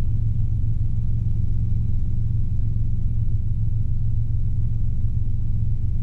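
Robinson R22 helicopter in level flight: the engine and rotors make a steady low drone that fills the cabin, without change in pitch or loudness.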